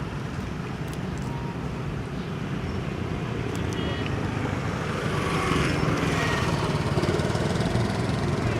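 Steady hum of a motor vehicle engine with road noise, growing louder from about five seconds in.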